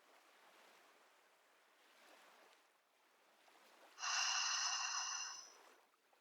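A person's slow open-mouthed sighing exhale, a breathy 'haaa' like fogging a mirror, lasting about a second and a half from about four seconds in, after a faint breathing hiss. It is the sighing out-breath that leads into ujjayi (ocean) breathing.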